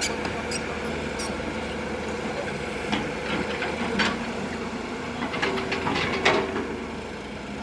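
Heavy machine's diesel engine running steadily, with a few sharp knocks and clatters of metal about three to six seconds in.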